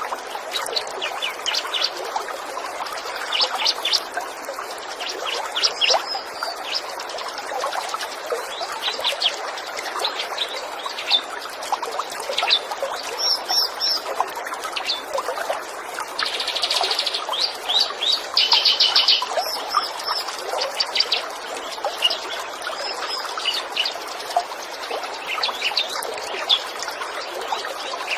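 Small songbirds chirping and trilling in quick repeated bursts, with a dense rapid trill about 17 to 19 seconds in. Under them runs a steady rush of flowing water.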